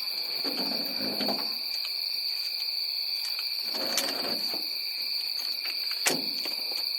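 Steady high-pitched insect drone, with two sharp knocks about four and six seconds in.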